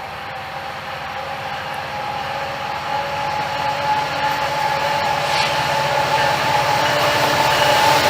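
Train approaching and growing steadily louder, a rumble with a steady whine of a few held tones riding over it.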